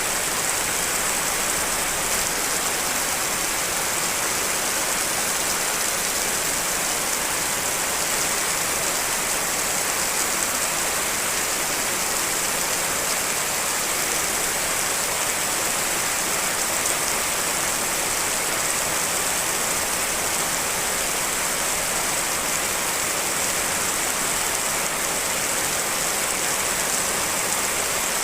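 Steady rain, a track layered from several real rain recordings, making an even, unbroken hiss with the most energy high up and no single drops or thunder standing out.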